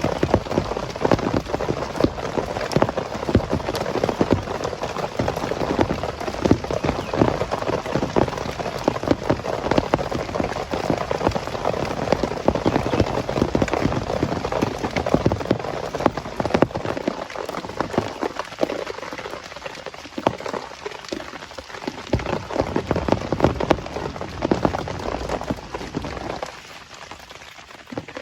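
Heavy rain drumming on a surface, a dense patter of many separate drop impacts. It thins out in the second half and turns quieter a couple of seconds before the end.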